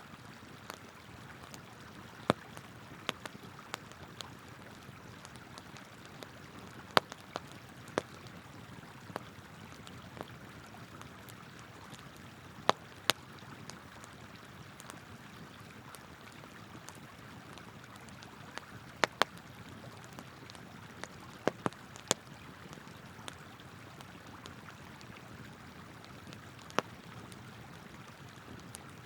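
Wood campfire crackling, with irregular sharp pops, some in quick pairs, over the steady rush of a flowing river.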